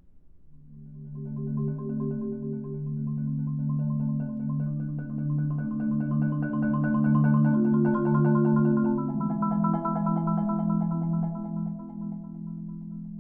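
Solo marimba playing rolled chords, the low notes sustained by fast repeated mallet strokes. The roll swells to loud about seven seconds in, moves to a new chord about nine seconds in, then softens.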